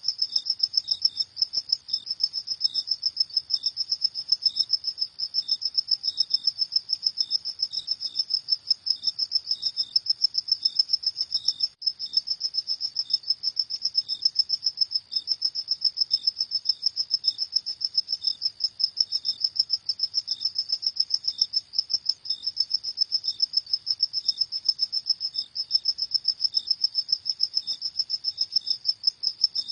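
Crickets chirping in a fast, continuous high-pitched trill, with a second cricket's shorter chirps repeating about twice a second just below it.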